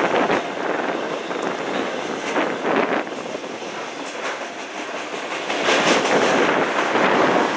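CSX work train's loaded flatcars rolling past, steel wheels clacking over the rails in a steady rumble that swells again near the end.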